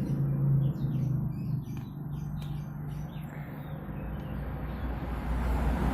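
A small bird chirping, a string of short falling chirps over about the first three seconds, over a steady low background hum.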